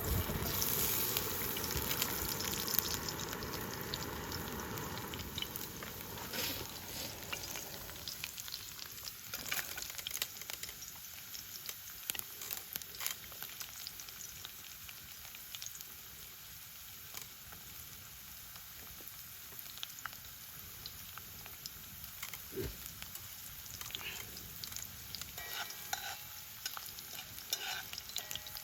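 Food frying and sizzling in a pan, with many small pops and crackles. It is louder for the first several seconds, then settles to a quieter sizzle.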